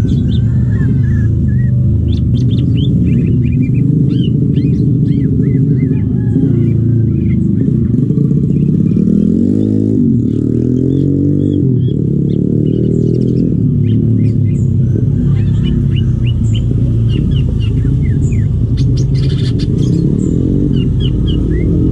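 A loud, low engine-like drone runs throughout, its pitch sliding up and down around the middle. Short high chirping calls of a greater green leafbird (cucak ijo) come and go over it.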